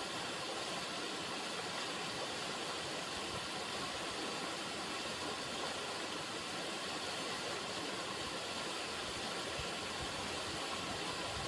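River water running: a steady, even rush with no breaks or changes.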